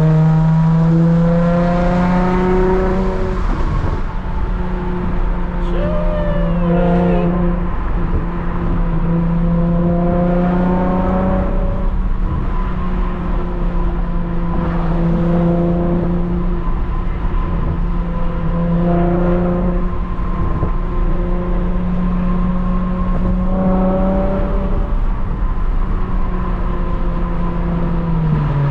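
Lexus IS350's V6 exhaust, modified with a catless resonated mid-pipe and a muffler-delete axle-back, droning loudly while the car is driven. Its pitch climbs and drops back about half a dozen times, as the car accelerates and shifts.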